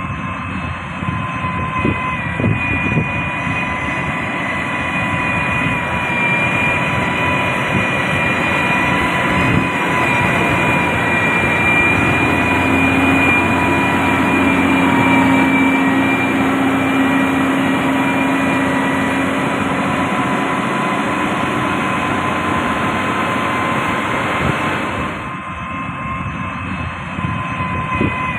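Diesel engine of heavy road-construction machinery running steadily under load, with high steady whines over the rumble. It grows louder toward the middle and eases off a little near the end.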